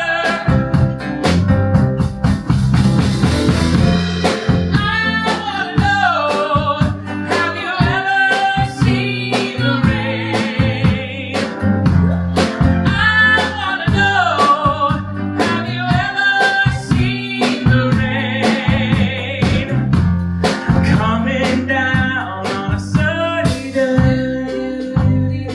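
A live folk-rock band playing, with singing over guitar, piano, bass guitar and a drum kit.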